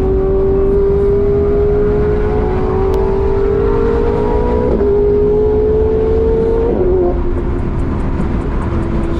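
BMW E36 320i's straight-six engine under load inside the cabin, its pitch climbing slowly, dipping at two quick gear changes about halfway and about three-quarters of the way through, then holding steady, over constant road and wind rumble.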